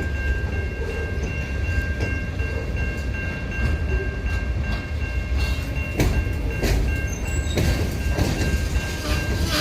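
CN local freight train rolling slowly in reverse: a steady low rumble with scattered clanks and knocks from the cars and wheels. A steady high-pitched whine runs along with it and stops near the end.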